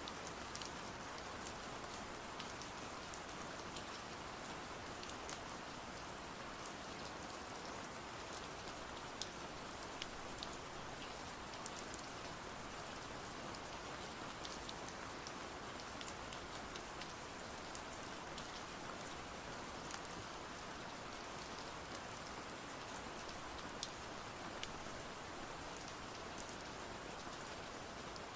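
Steady rain falling, an even hiss with scattered sharp clicks every second or so.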